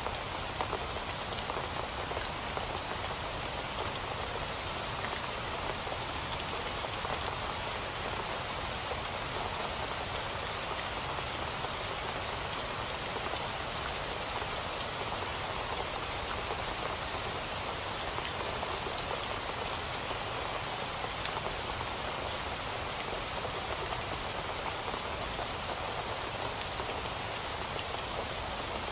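Steady rain falling, with many small drops pattering on a surface and no thunder.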